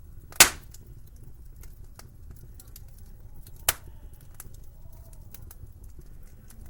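Wood fire crackling in a fireplace, with many small ticks over a low rumble and two sharp, loud pops about three seconds apart.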